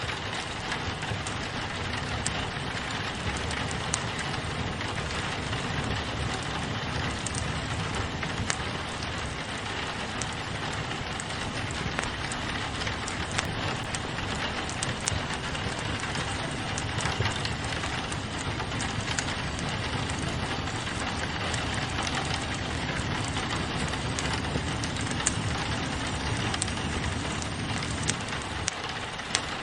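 Steady rain pattering on a window, mixed with a wood fire crackling, with scattered sharp pops and snaps throughout.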